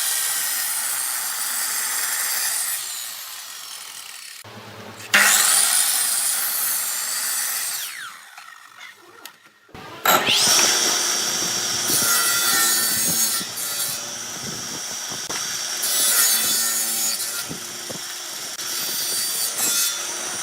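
A tool cutting into wood spinning on a lathe, a steady scraping hiss. It breaks off and starts again abruptly twice, about 5 and 10 seconds in.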